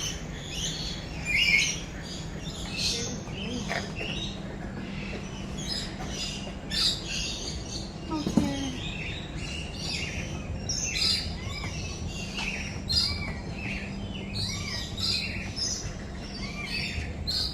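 Many birds chirping and calling at once, a dense chorus of short, overlapping high chirps and whistled notes.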